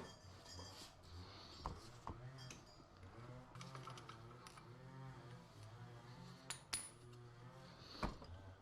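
Faint, scattered metallic clinks and clicks of tools and small metal parts being handled, about half a dozen over a few seconds, over a low steady hum.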